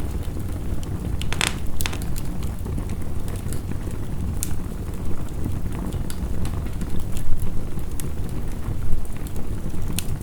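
Wood fire crackling and popping in sharp, irregular snaps, with a louder burst of crackles about a second and a half in, over a steady low rush of heavy rain.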